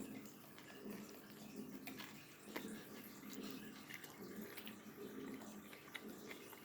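Faint chewing of a mouthful of pulled pork sandwich, irregular, with scattered small clicks.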